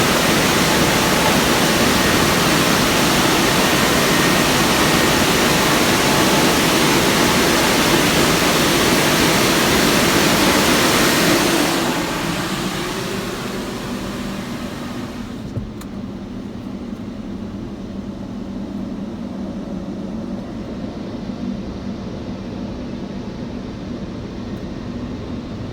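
Water from a touchless car wash's spray jets hissing over the car, heard from inside. About twelve seconds in the spray fades out over a few seconds, leaving a quieter steady hum of the dryer fans.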